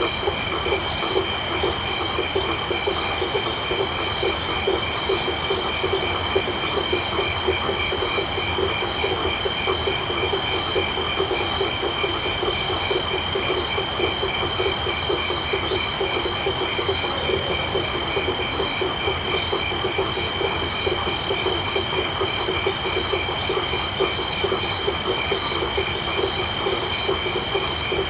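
Tropical night chorus. Frogs call in a dense, rapidly pulsing chorus, while crickets trill steadily at several high pitches, with a few faint high ticks here and there.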